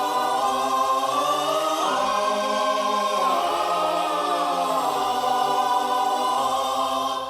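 Background music of a wordless choir singing held chords, moving to a new chord every second or two, with the sound starting to fade right at the end.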